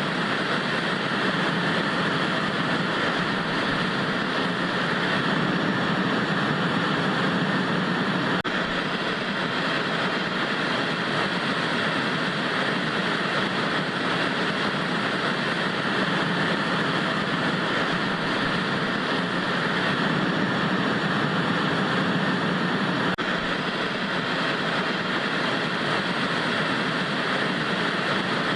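Steady hiss of old analog TV static, a continuous white noise, with two faint clicks along the way.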